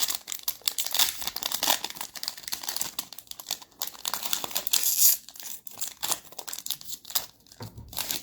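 Trading-card pack wrappers being torn open and crinkled by hand, a dense, continuous crackling that is loudest about five seconds in and thins out near the end.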